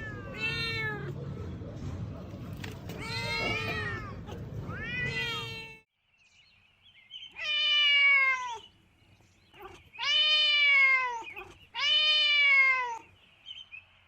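Domestic cat meowing repeatedly: three shorter meows over a low background hum, then, after a sudden cut, three long, loud meows, each falling in pitch.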